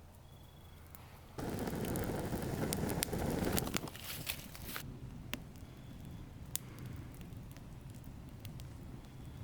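Wood campfire burning: a dense rush of flame noise starts suddenly about a second and a half in and lasts a couple of seconds, then gives way to scattered sharp pops and crackles.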